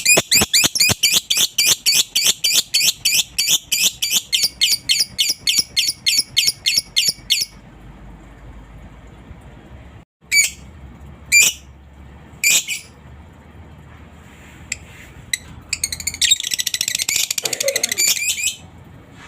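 Lovebird singing its 'ngekek' song: a long, fast, even run of shrill calls lasting about seven seconds, then three single sharp calls, then a dense burst of chattering near the end.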